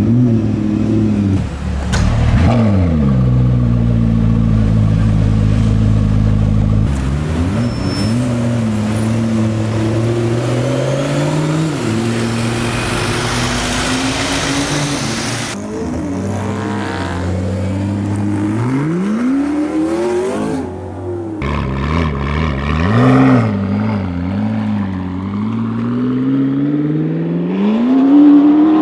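McLaren P1's 3.8-litre twin-turbo V8 revving and accelerating hard, its pitch climbing and dropping again and again, with sudden jumps in the sound between passes. The sharpest rise comes near the end.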